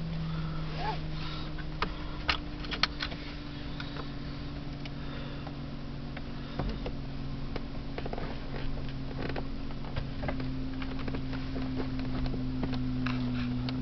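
BMW 328's straight-six engine idling steadily just after starting, heard from inside the cabin; its idle pitch eases down slightly at first, then holds. Scattered light clicks and knocks sound over it, the sharpest a couple of seconds in.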